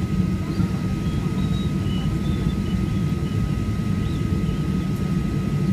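Steady drone of a Boeing 737-800's CFM56 turbofan engines and airflow heard inside the cabin: a low rumble with a constant thin whine above it.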